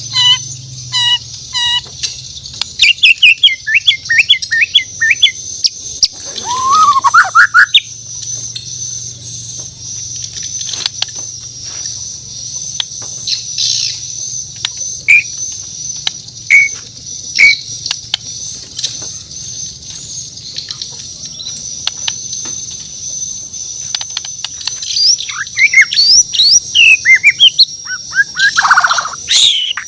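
Bornean murai batu (white-rumped shama) singing in bursts: a quick run of whistled notes, a rising whistle about seven seconds in, scattered single notes, then a fuller rush of song near the end, with sharp clicks between. A steady high-pitched drone lies under it.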